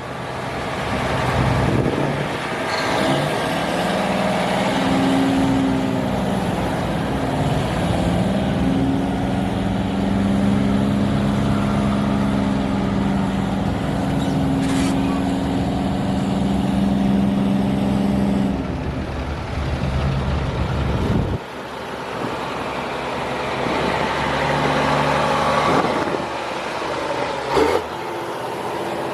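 Heavy diesel truck engine running under load, its pitch shifting up and down a few times, then dropping away about 21 seconds in to a lower rumble. A short sharp burst sounds near the end.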